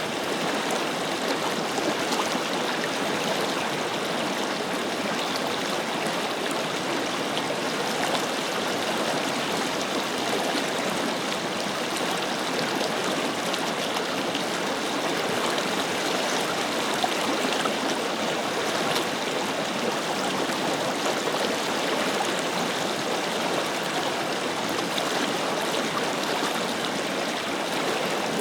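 Forest river flowing: a steady, even rush and babble of water running over rocks.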